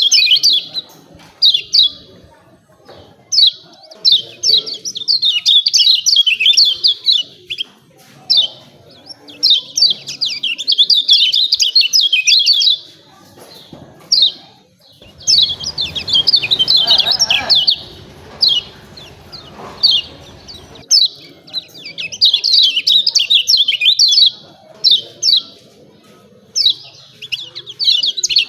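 Kecial kuning white-eye giving its rapid 'ciak ciak' chattering call in repeated bursts of one to three seconds with short gaps between them. A low rumbling background noise runs under the calls for several seconds in the middle.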